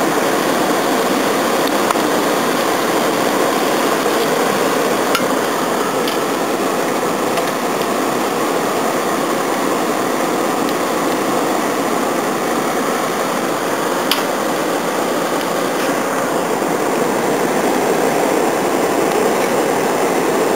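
Steady rushing noise of an electric blower fan forcing air into a wood fire, with a couple of faint clicks from the fire.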